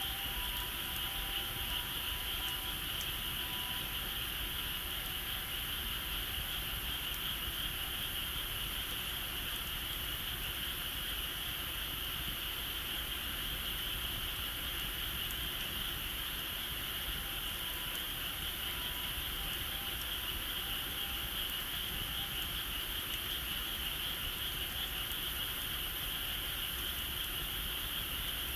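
Steady, unbroken high-pitched chorus of calling insects.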